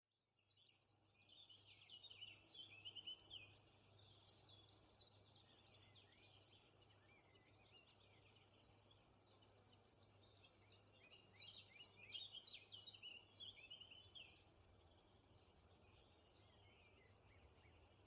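Faint chatter of birds: many quick high chirps and twitters in dense runs, thinning out after about fourteen seconds. A steady low hum lies underneath.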